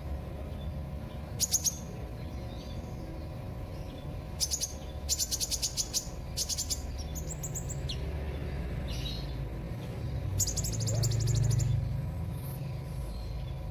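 Kolibri (Indonesian name for a sunbird) calling in several bursts of rapid, high-pitched chirping trills, the longest near the end, over a steady low background hum.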